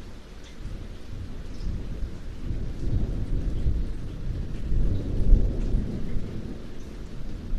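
Rain falling steadily, with a long roll of thunder that swells from about two seconds in, peaks a little past the middle and eases off toward the end.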